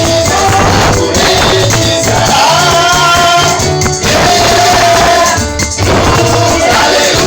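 Loud gospel praise music: a group singing over bass and a driving tambourine and shaker rhythm.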